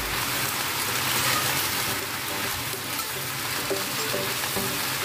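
Napa cabbage and dried shrimp sizzling in a hot wok as they are stir-fried with a metal spatula: a steady frying hiss.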